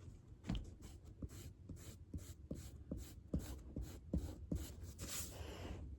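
Pencil-type drawing tool scratching on paper in quick, repeated short strokes while shading in.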